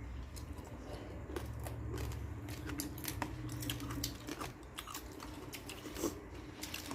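Close-up eating sounds: crunching and chewing, with many short, sharp clicks scattered through it over a steady low hum.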